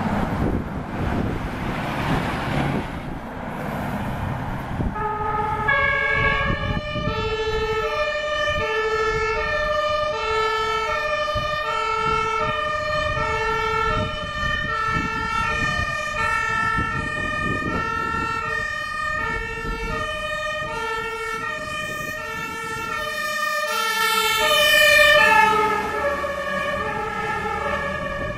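Fire engines' two-tone sirens start about five seconds in, alternating steadily between two notes, with more than one siren sounding at once over truck engine noise. The sound swells to its loudest near the end.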